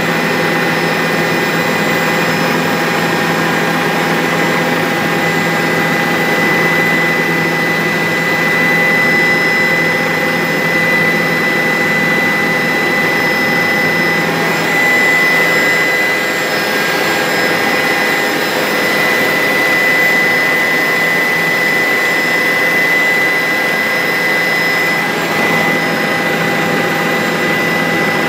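Bell 407 helicopter's single turboshaft engine and rotor running steadily, a constant high turbine whine over dense rotor and airflow noise.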